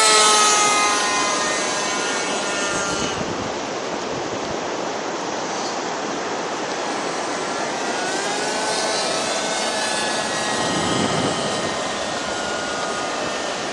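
Radio-controlled model airplane's engine buzzing in flight, its pitch dropping as it passes in the first couple of seconds and rising and falling again later as it turns, over a steady rush of strong wind on the microphone.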